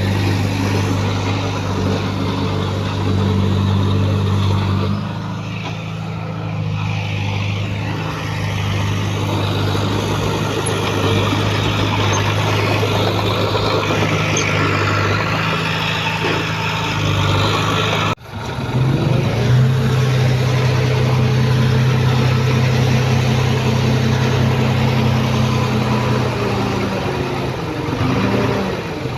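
Diesel engines of heavy earthmoving machines running as a steady low drone that shifts down about five seconds in. A sudden break comes about eighteen seconds in, followed by a steadier, slightly higher drone that eases off near the end.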